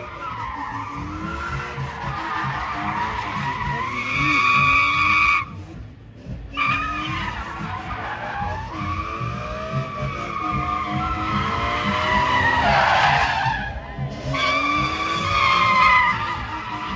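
Car tyres squealing in long, sustained slides over a running engine, breaking off briefly twice.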